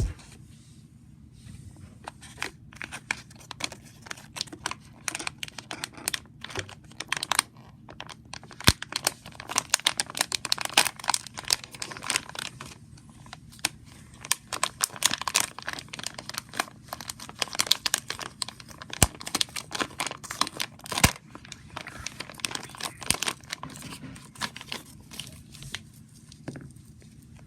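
Gift wrapping paper being torn and crumpled as presents are unwrapped: irregular flurries of rustling, tearing and crinkling with short pauses between them.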